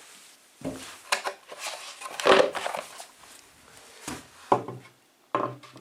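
Plywood frame parts knocking and scraping as they are handled and fitted together: a series of irregular wooden knocks and clatter, loudest about two seconds in.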